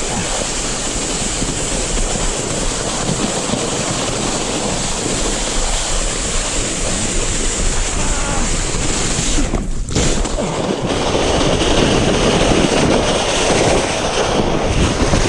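Rushing wind on the microphone and a sled hissing and scraping over snow during a fast run downhill, a dense, loud noise that drops out briefly about ten seconds in.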